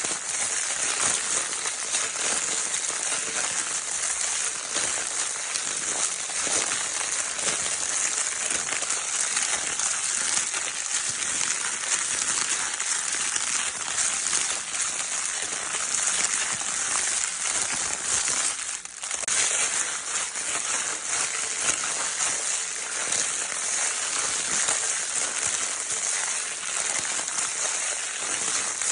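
Continuous crinkling of a baby's crinkle-paper toy, a dense steady rustle of fine crackles that dips briefly about two-thirds of the way through.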